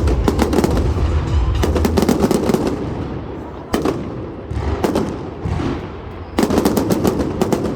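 Fireworks going off: rapid crackling barrages of many small reports, with single sharp bangs in between, and a second dense crackling barrage near the end.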